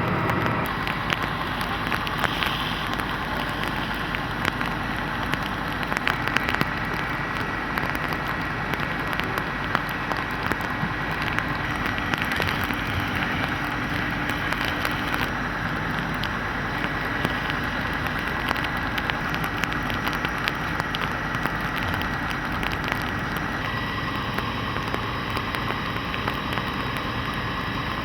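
Steady crackling hiss of a fire burning, full of small sharp cracks, over the low running of a vehicle engine.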